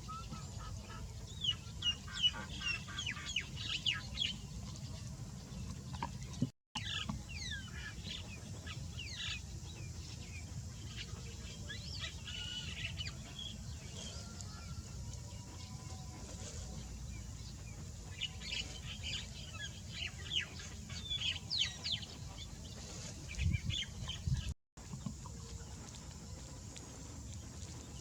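Birds calling in bursts of many short, high chirps, busiest near the start and again toward the end, over a steady low rumble. The sound cuts out for an instant twice.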